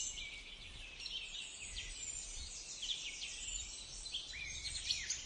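Many birds chirping and calling over one another, a busy chorus of short rising and falling chirps.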